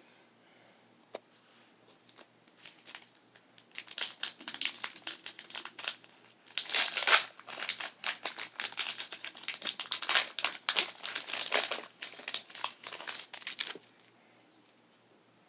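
Foil Pokémon booster pack wrapper being crinkled and torn open by hand, a dense crackling that builds about three seconds in, is loudest in the middle and stops near the end.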